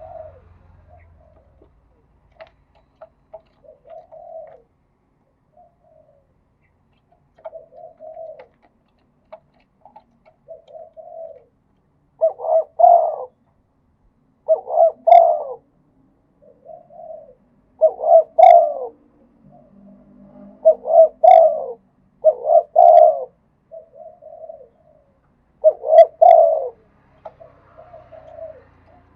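Spotted dove cooing in repeated phrases. The coos are soft and spaced out at first, then loud and in close groups from about twelve seconds in.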